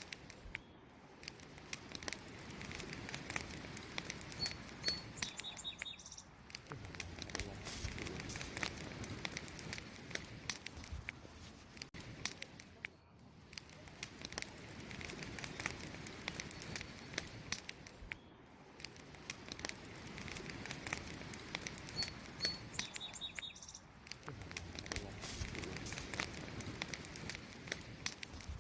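Wood campfire crackling and popping steadily in many sharp snaps. A short high bird chirp is heard twice, about four and a half seconds in and again near 23 seconds.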